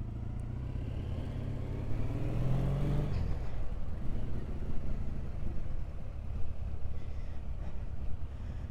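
Triumph Bonneville parallel-twin motorcycle engine under way. It rises in pitch as it accelerates, then drops abruptly about three seconds in at a gear change. After that the engine and road noise carry on steadily.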